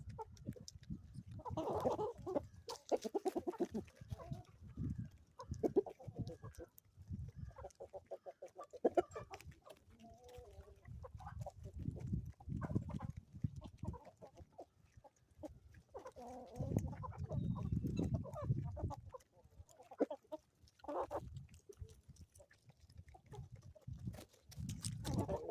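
Chickens clucking, a steady run of short repeated calls, with intermittent low rumble underneath.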